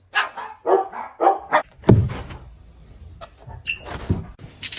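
Dog barking: about five short barks in quick succession, then a louder low thump about two seconds in.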